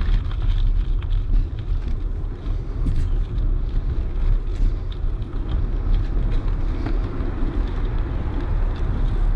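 Wind rumbling on the microphone of a moving bicycle's camera, over steady tyre noise, with small scattered clicks and rattles from the bike over the track.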